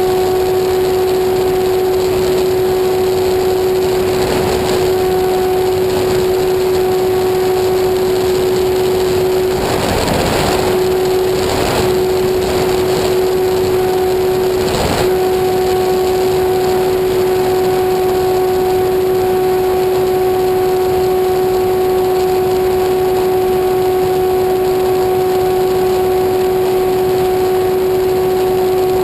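A motor running steadily at one unchanging pitch, a constant humming drone, with brief bursts of noise about ten and fifteen seconds in.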